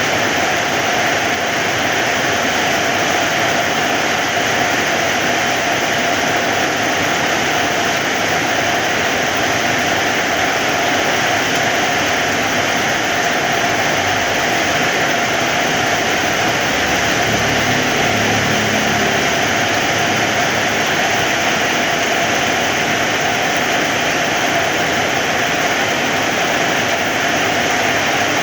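Heavy rain falling in a steady, even downpour, with a brief low rumble a little past the middle.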